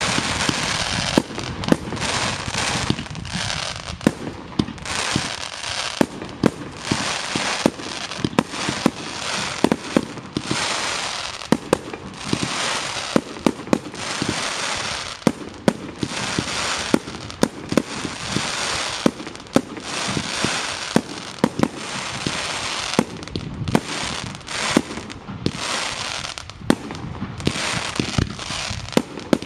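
Fireworks display: a continuous barrage of crackling bursts with many sharp bangs.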